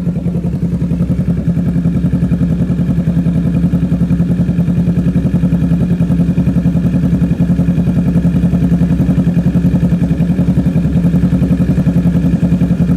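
Kawasaki Z650's parallel-twin engine idling steadily through a full aftermarket exhaust system, with a loud, evenly pulsing note.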